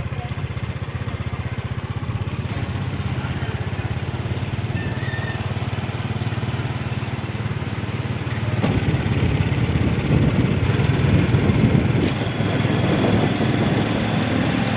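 An engine running steadily with a low pulsing rumble, getting louder about nine seconds in.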